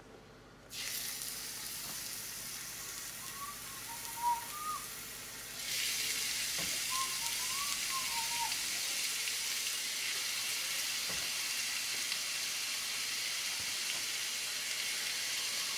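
Raw chicken breasts sizzling as they hit a hot, oiled cast iron skillet. The sizzle starts about a second in, grows louder around six seconds in as more chicken goes in, then holds steady. A person whistles a few short notes over it in the first half.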